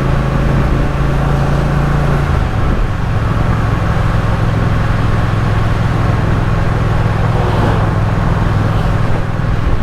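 Triumph Speed Twin's parallel-twin engine running steadily under way, with wind and road noise. The engine note drops slightly about two and a half seconds in, then holds steady.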